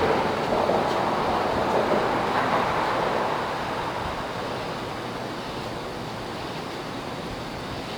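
Steady rushing noise with no clear beat or tone, easing off after about three seconds.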